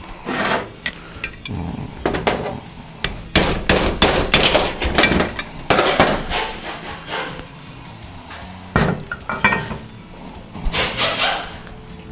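Metal transmission parts being handled: irregular clunks, knocks and scraping of metal on metal, busiest in the middle and again near the end.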